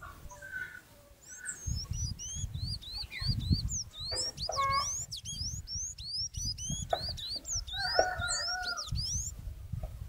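A songbird singing: a rapid run of thin, high chirps, each sweeping upward, about three or four a second, with a few lower calls mixed in. Low thumps and rumble come and go underneath.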